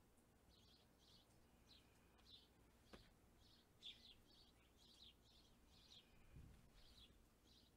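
Faint songbird chirping: short, high notes repeating about twice a second. A light click about three seconds in and a low thump near the end.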